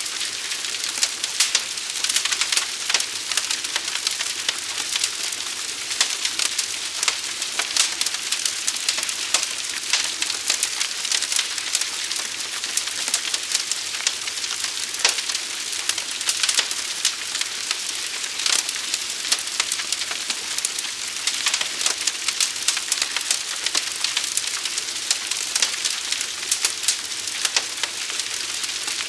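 Fire burning with a steady hiss and dense, irregular crackling pops.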